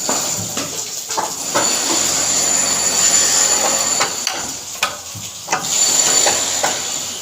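Heavy rain falling, a loud steady hiss that swells twice, with scattered sharp ticks and knocks of drops landing.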